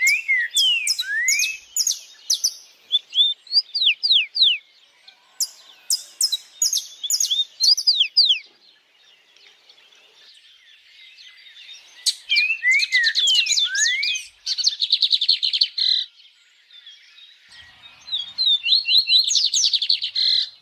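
Songbirds singing in bouts of quick sliding whistles mixed with sharp, high clicking notes, with fast trills in the second half and a few seconds' lull in the middle.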